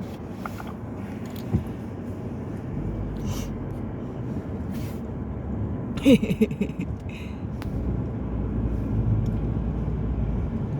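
A road vehicle driving: a steady low rumble that builds slightly toward the end, with a brief higher-pitched sound about six seconds in.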